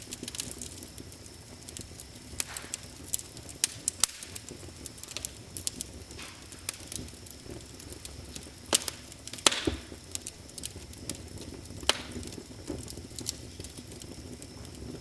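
Wood fire burning in a fireplace, crackling with irregular sharp pops over a steady low hiss.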